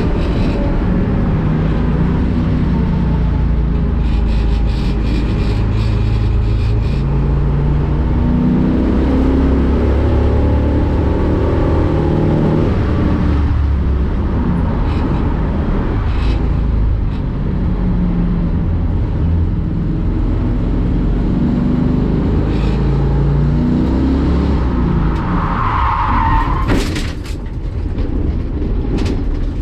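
1965 Ford Mustang race car engine heard on board, revving up through the gears and dropping back again and again. About 26 seconds in, the tyres squeal briefly, and then the engine note falls away suddenly.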